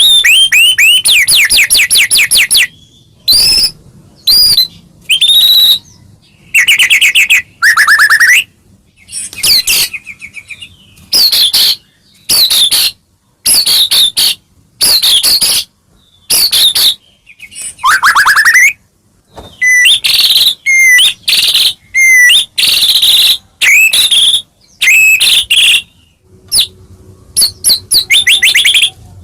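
White-rumped shama (murai batu) in full, loud song: a run of varied short phrases of fast repeated notes and whistled notes sliding up and down, broken by brief pauses.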